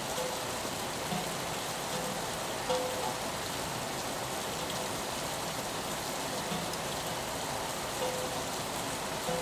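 Steady rain falling on a window, with a few short pitched drips standing out now and then.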